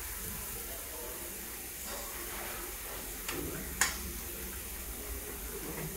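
Thick cashew masala sizzling softly in a frying pan, a steady low hiss, with two light clicks a little past halfway.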